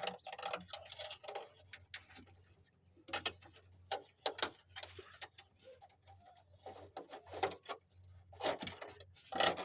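Irregular clicks, taps and rustles of hands handling electrical wiring and tape in a truck's engine bay, over a faint steady low hum.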